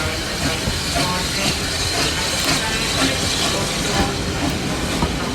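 Steam locomotive with steam hissing steadily.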